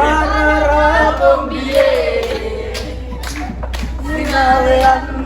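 A group of people singing together with hand-clapping over a steady low rumble.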